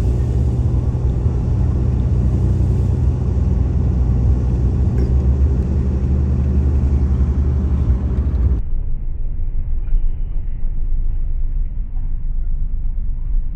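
Steady low rumble of a car driving, heard inside the cabin: engine and road noise. About two-thirds of the way through, the hiss in the sound cuts off suddenly, leaving a duller rumble.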